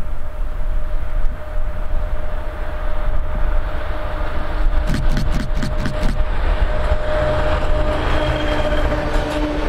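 TEP70-series diesel locomotive hauling a passenger train past at speed: a steady low rumble of engine and wheels, with a quick run of clacks as the locomotive's wheels cross a rail joint about five seconds in, then the carriages rolling by.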